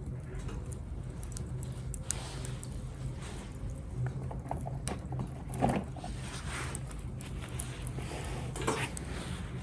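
Small wood fire crackling in a compact tabletop grill, with scattered sharp pops, the loudest about two seconds in and another a little past the middle.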